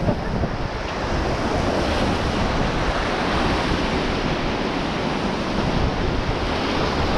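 Fast-flowing river water rushing steadily around a raft, with wind buffeting the microphone.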